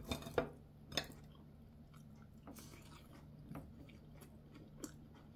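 A person chewing food close to the microphone, with a few sharp clicks in the first second and small, faint mouth sounds after.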